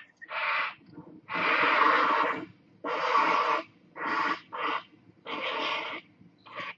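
An animal calling in a series of about seven rough, breathy bursts, each half a second to a second long, with short pauses between them.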